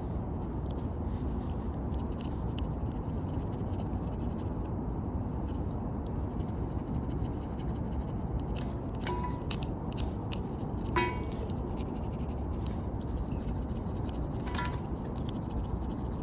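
Scraping and scratching with a few short metallic clinks over a steady low rumble.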